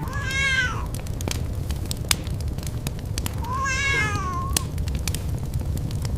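Lynx kitten meowing twice, each a short mew that rises and then falls in pitch, over scattered sharp clicks and a steady low rumble.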